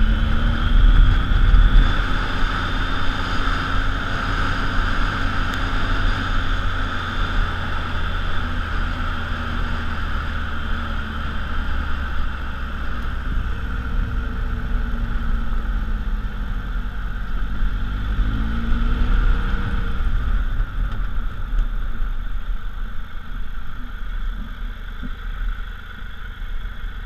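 Triumph Tiger Explorer XC's three-cylinder engine running as the motorcycle rides along a gravel track, over a steady rush of wind on the camera. The engine note falls and then climbs again a little past the middle, and the sound quietens near the end as the bike slows.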